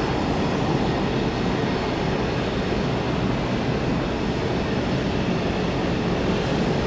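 Steady roar of jet airliner engines at an airport.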